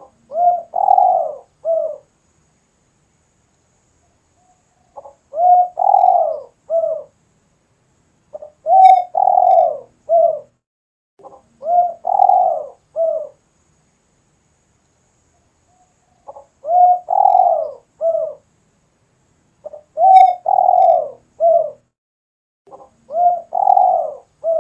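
Spotted dove cooing: a phrase of three or four low coos, with a long middle note, repeated seven times every three to four seconds.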